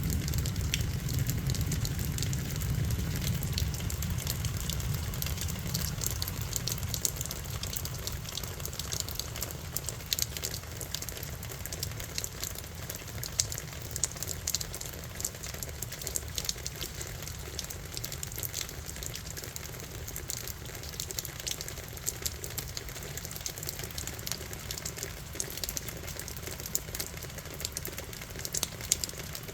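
Steady heavy rain falling, with many small drops pattering and ticking. A low roll of thunder dies away over the first few seconds.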